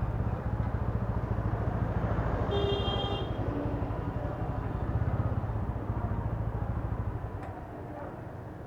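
Motorcycle engine chugging at low speed in stop-and-go traffic, heard from the rider's helmet mic, with a brief high-pitched tone about three seconds in. The engine sound drops away near the end.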